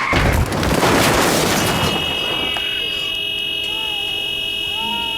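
A loud burst of crashing noise lasting about two seconds, followed by a steady high-pitched electronic tone that holds on, like an alarm or buzzer.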